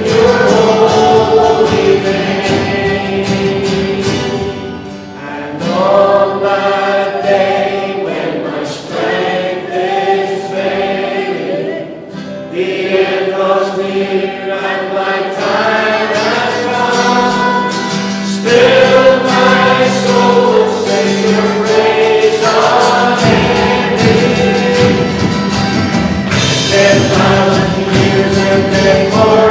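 Church congregation singing a worship song together, with long held notes over a steady musical accompaniment.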